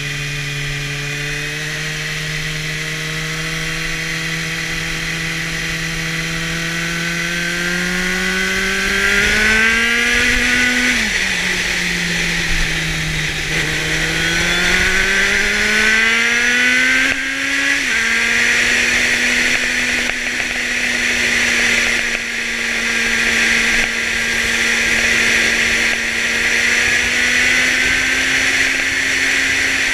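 Kawasaki Z750's inline-four engine through a LeoVince exhaust, heard on the move: the revs climb steadily, drop at an upshift about eleven seconds in, climb again, drop at a second upshift about seven seconds later, then hold steady at cruising speed. A rushing noise builds as speed rises.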